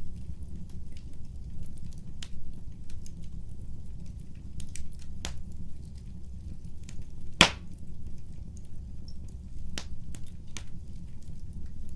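Wood fire burning: a low steady rumble of flames with scattered crackles and pops, and one loud sharp pop about seven seconds in.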